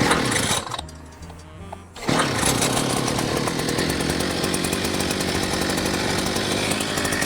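Small two-stroke mini outboard motor (a cheap $150 weed-whacker-type kayak outboard) being started: a short burst at the start, then about two seconds in it catches and runs steadily.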